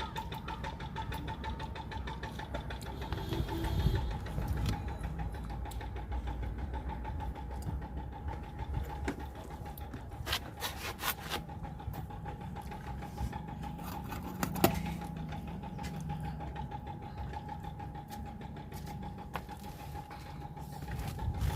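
A small motor hums steadily at one pitch over a low rumble, with a few sharp clicks or knocks.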